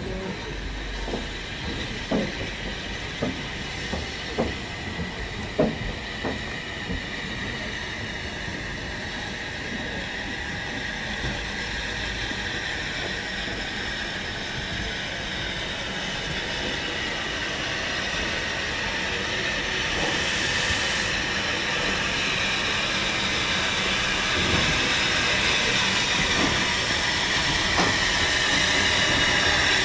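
A steam-hauled heritage train running on the line, with regular knocks about once a second early on. High whining tones then build as it grows steadily louder toward the end.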